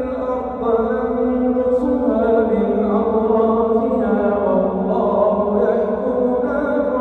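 A man's voice reciting the Quran in slow melodic chant, holding long drawn-out notes that step slowly up and down in pitch without a break.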